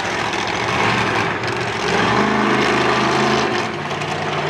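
Monster truck engine running under load, its pitch stepping up and getting louder about two seconds in, then changing again and easing off a little near the end.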